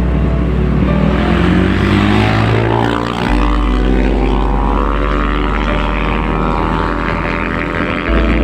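Propeller airliner's engines running, their pitch rising over several seconds, under a deep low drone that changes abruptly twice.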